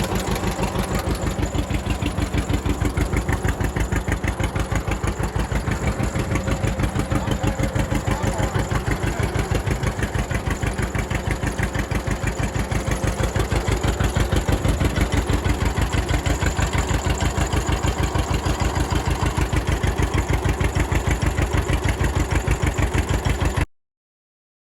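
1954 John Deere 60's two-cylinder engine running at idle just after a cold start in bitter cold, with an even, steady pulsing beat. The sound cuts off suddenly near the end.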